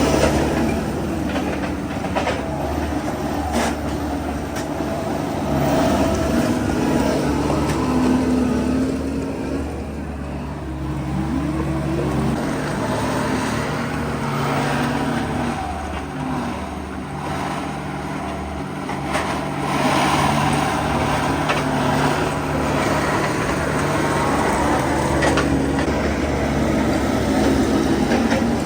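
Tractor engine running steadily while hay is loaded, with its pitch rising briefly about eleven seconds in.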